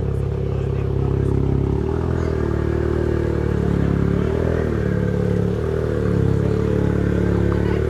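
A car engine running steadily at low revs, close by, its pitch dipping and shifting slightly a few times.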